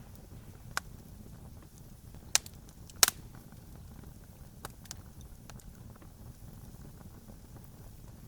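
Campfire crackling: a few sharp pops and snaps of burning wood, the loudest about three seconds in, over a steady low rumble.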